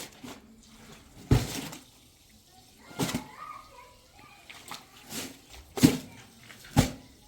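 Water splashing and sloshing in about five separate short surges, the first and longest about a second in, as in hand-washing with water.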